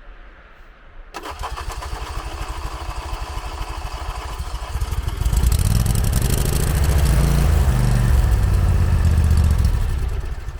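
John Deere ride-on mower's engine cranking on its starter in deep cold, catching about four seconds later and running loudly on choke, then easing off near the end.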